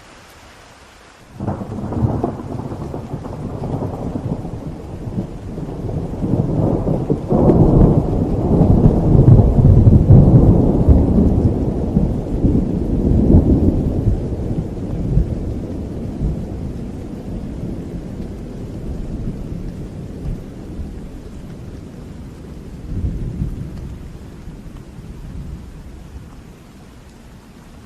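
Thunder over steady rain: a rumble starts suddenly about a second in, builds to its loudest near the middle, then rolls on and slowly fades away over the next fifteen seconds or so.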